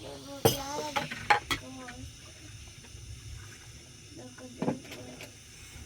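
A voice in the first two seconds, with sharp clinks and knocks of pots or dishes, several early on and one more near the end.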